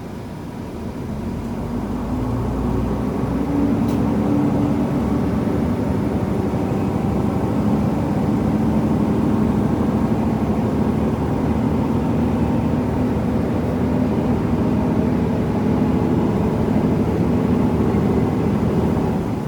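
KiHa 75 diesel railcar under way, its diesel engine droning with a low rumble of the running gear; the sound builds over the first three seconds and then runs steadily.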